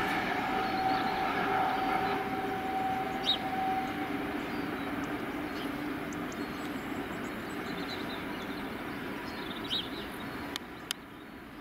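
A train running out of hearing, its steady rumble slowly fading away. A couple of short high bird chirps sound along the way.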